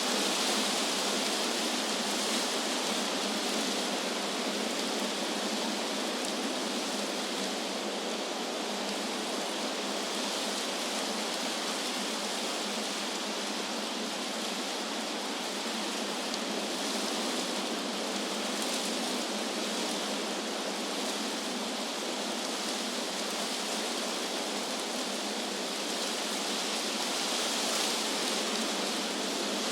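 Wind rustling through tree leaves: a steady hiss that swells and eases gently every few seconds.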